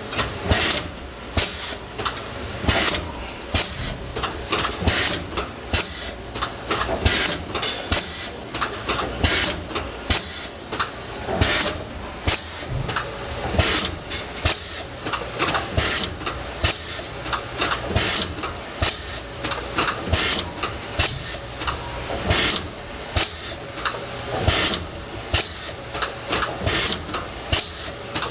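Automatic shrink-wrapping machine running on airtight food containers: steady machine noise with repeated clacks and knocks, about one or two a second.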